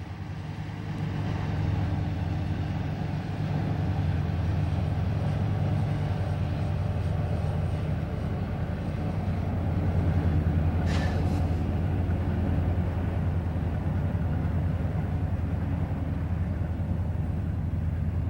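Diesel locomotives working a train pulling out of a yard: a steady low engine drone that builds over the first couple of seconds, with a brief high squeal about eleven seconds in.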